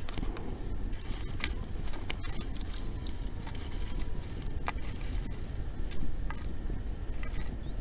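Wood bonfire crackling, with scattered sharp pops over a steady low rumble.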